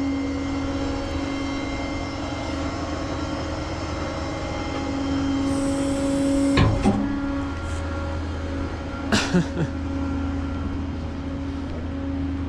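Truck engine idling steadily, with a few short knocks partway through.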